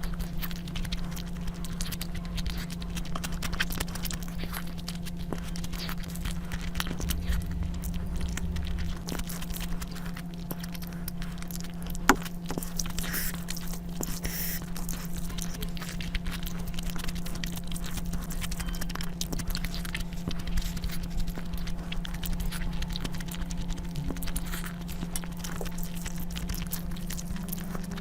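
Close-miked eating sounds: chewing, wet mouth noises and small clicks of someone eating rice and curry, over a steady low hum. One sharp click stands out about twelve seconds in.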